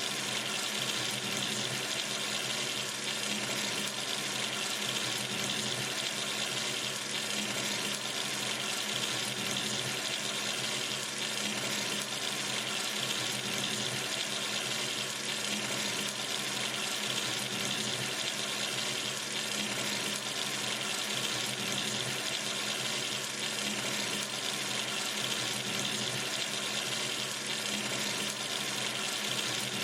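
Water running steadily from a sink tap into the basin, an even rushing with no change.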